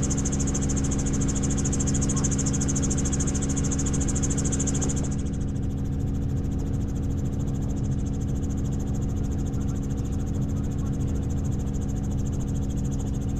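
Helicopter in flight: a steady drone of rotor and engine, with a high hiss that drops away about five seconds in.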